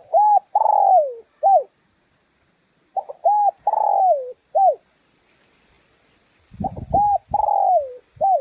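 Spotted dove cooing its song three times, about three seconds apart: each phrase a few short coos and one long falling coo, ending on a short note. Low thumps sound under the last phrase.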